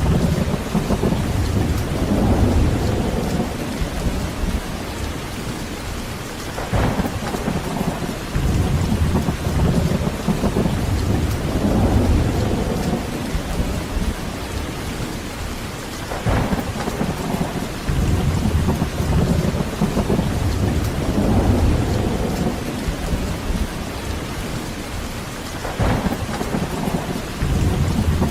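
Heavy rain falling steadily, with rolling thunder rumbling low and swelling and fading several times.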